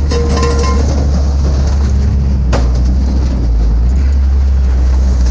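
Steady low engine rumble of an idling vehicle, with a brief squeal near the start and a single sharp knock about two and a half seconds in.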